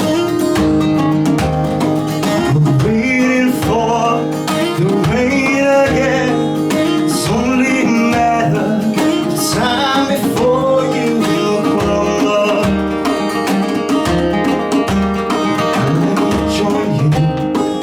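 A band playing an acoustic, country-style song: strummed acoustic guitar with a lead melody that slides and bends in pitch over it, most strongly in the first half.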